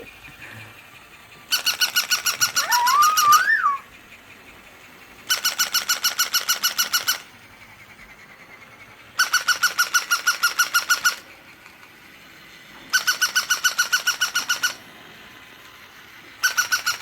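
Battery-powered toy dog yapping electronically: bursts of about two seconds of rapid, identical squeaky yips, repeating every few seconds. A short rising whine overlaps the first burst.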